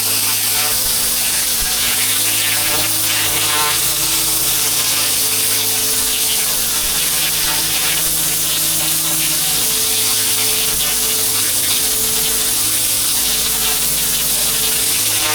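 Pressure washer running steadily: a constant engine hum under the high hiss of the water spray.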